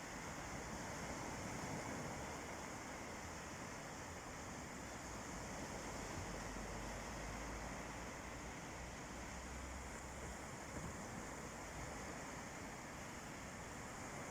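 Calm sea surf: a steady wash of small waves on the shore, swelling slightly a couple of seconds in.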